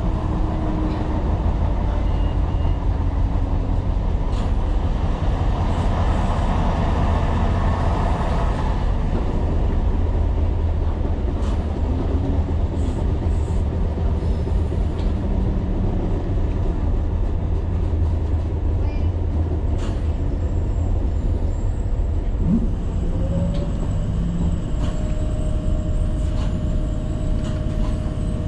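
Tyne & Wear Metrocar running along the track: a steady, loud rumble of wheels and running gear. Scattered faint clicks come through, and late on a tone rises briefly and then holds as a steady whine.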